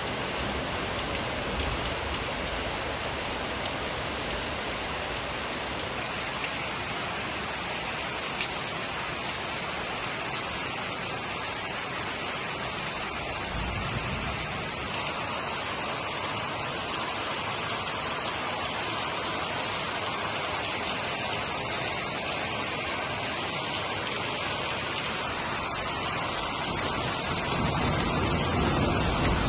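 Heavy rain falling steadily in a dense hiss, with a few sharp drop hits in the first several seconds. A low rumble builds near the end.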